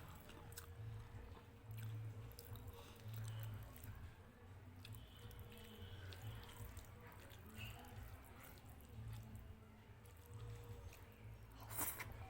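Close-miked chewing and wet mouth sounds of someone eating a rice-and-dal meal, in soft rhythmic pulses about once a second, with small clicks and one sharper click near the end.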